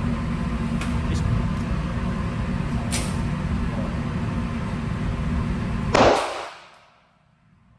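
Steady low rumble of a vehicle on the move, with a few faint clicks, then one loud sudden hit about six seconds in that fades away over about a second, after which the rumble stops.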